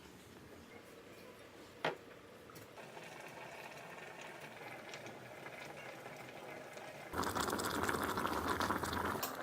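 Liquid bubbling at the boil in an electric kettle, with a single sharp click about two seconds in. The bubbling gets much louder about seven seconds in and eases off just before the end.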